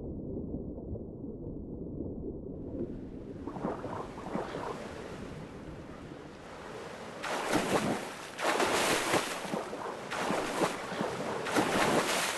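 Rushing noise of waves: muffled for the first three seconds or so, then opening up and swelling in several surges in the second half.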